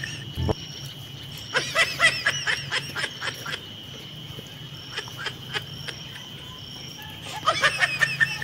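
Two bursts of rapid, high-pitched snickering laughter, each lasting about two seconds, over a steady high-pitched tone; a low thump sounds about half a second in.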